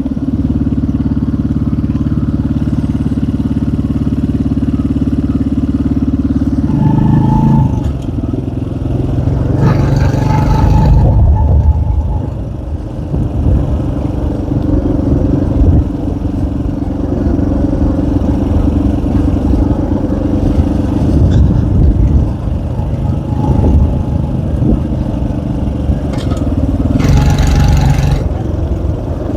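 Small K Moto ATX enduro motorcycle engine running, held at a steady pitch for the first several seconds, then changing speed with two brief rises in revs, about ten seconds in and near the end.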